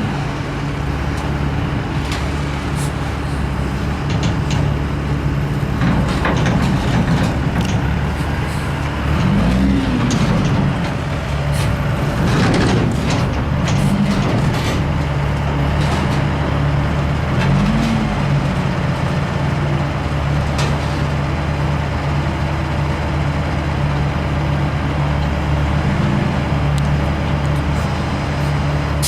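Kenworth roll-off truck's diesel engine running steadily and revving up briefly several times while it works the hoist to set down a 40-yard roll-off bin, with scattered metal knocks and clanks from the bin.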